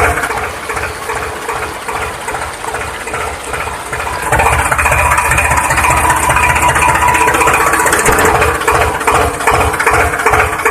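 Diesel tractor engine idling with a steady chugging beat, getting louder about four seconds in.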